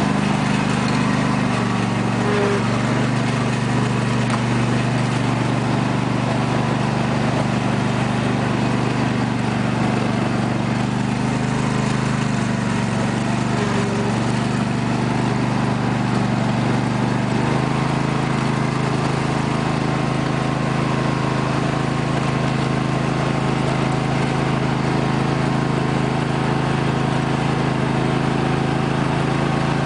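2005 Husqvarna lawn tractor's 24 hp Briggs & Stratton V-twin engine running steadily, its pitch stepping up slightly a little over halfway through.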